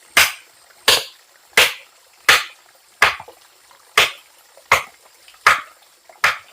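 Steady, even chopping: nine sharp strokes, about one every 0.7 seconds, each a crisp crack with a short fading tail.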